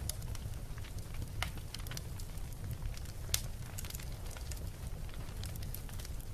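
Beach bonfire crackling: irregular sharp pops and snaps over a steady low rumble, with the loudest pop about three seconds in.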